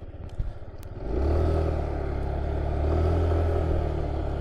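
Motorcycle engine running, getting markedly louder about a second in and holding steady before easing off near the end.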